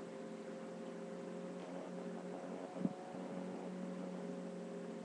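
Steady background hum and hiss of a small room, with several fixed tones in the hum, and one short soft knock nearly three seconds in.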